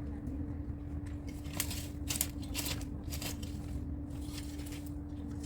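A loaded garden wheelbarrow being pushed over the ground: a low rolling rumble with a steady hum, and scattered clicks and crackles from the rattling load of yard debris.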